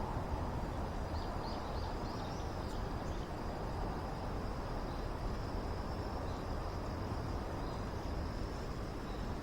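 Outdoor campsite ambience: a steady low rumble with a thin, continuous high-pitched trill, likely insects, over it, and a few short high chirps in the first three seconds.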